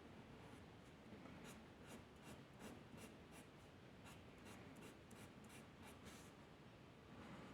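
Faint scratching of a drawing tool on paper: a run of short, quick strokes, about three a second, from about a second and a half in until about six seconds in.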